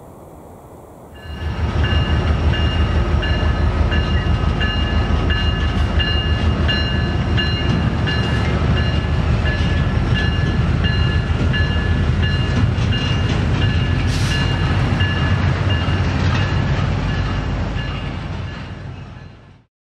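Norfolk Southern freight train rolling past, a heavy rumble with a steady high-pitched squeal over it. It starts abruptly about a second in and fades out near the end.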